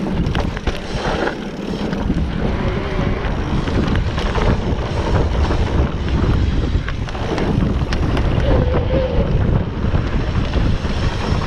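Wind rushing over the microphone of a mountain bike descending a dirt trail, with a steady low rumble and scattered rattles and knocks from the bike.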